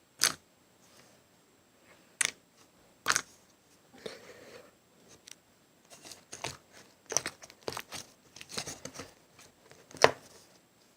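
Slime being squeezed and poked by hand, giving sharp sticky pops and clicks. Single pops come a few seconds apart early on, a run of quicker crackling pops follows from about six to nine seconds, and one loud pop comes near the end.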